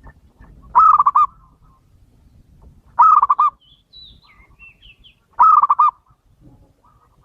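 Male zebra dove (perkutut) cooing: three loud phrases about two and a half seconds apart, each a quick run of about five rolling coo notes. Faint high chirps from another small bird sound between the second and third phrases.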